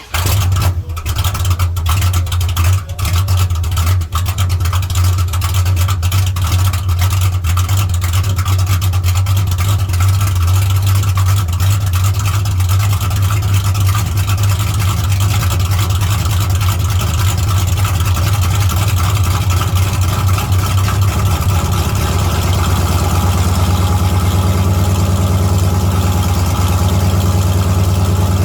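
A 1971 Plymouth GTX's 440 big-block V8, fed by FiTech fuel injection in place of its Six Barrel carburettors, catches on a cold start. It stumbles briefly a few times in the first few seconds, then runs at a steady fast idle. About 22 seconds in its note shifts deeper.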